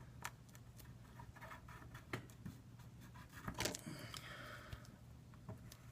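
Faint, scattered clicks and taps with a short scrape just after four seconds, from a spudger being pressed and worked along the edge of an iPad 2 during a screen repair. A steady low hum runs underneath.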